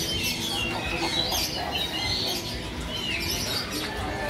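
Many caged songbirds chirping and calling at once, short overlapping chirps and whistled sweeps, over a steady low market hubbub.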